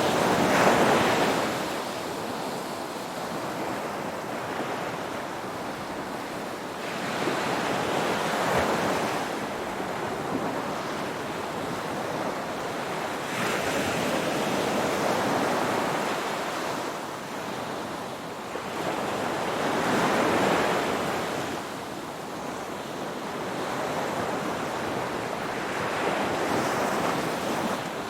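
Ocean waves breaking and washing on the shore, in a steady series of swells, about one every six seconds, each rising to a hiss and falling back.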